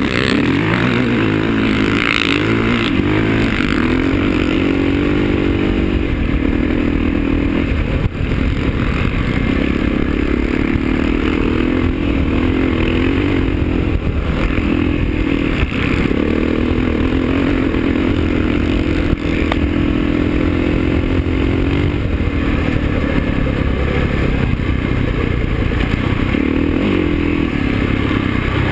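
KTM enduro motorcycle engine running hard under way on a dirt track, its pitch repeatedly climbing and dropping as the rider opens and closes the throttle through the gears.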